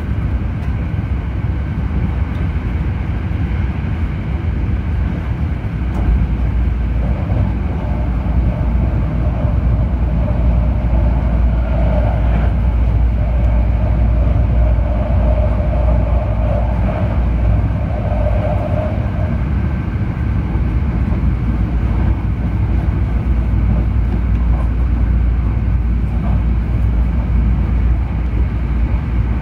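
Hankyu Kyoto Line limited express train running at speed, heard from inside the passenger car: a steady low rumble that grows louder about six seconds in. A humming tone rides over it through the middle stretch.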